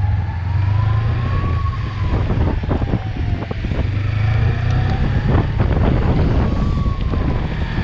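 Suzuki V-Strom 250's parallel-twin engine running under way, a steady low rumble with wind and road noise. A fainter tone slowly rises and falls over it.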